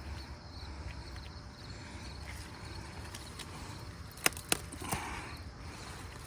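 Two sharp clicks or snaps a quarter second apart about four seconds in, followed by a softer rustle, over a steady low rumble.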